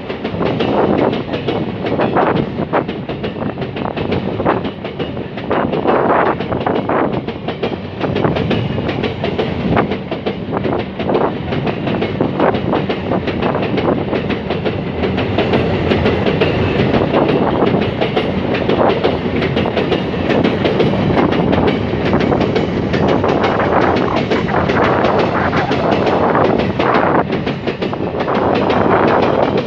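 Freight train wagons rolling past, a continuous rumble with repeated clicking of steel wheels over rail joints.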